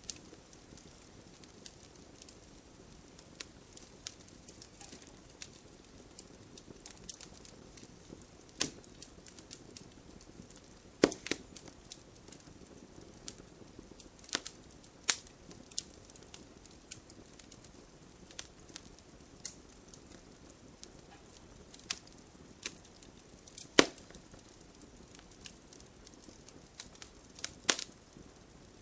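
Bonfire crackling: irregular sharp pops and snaps from the burning wood, a few much louder than the rest, over a steady soft hiss.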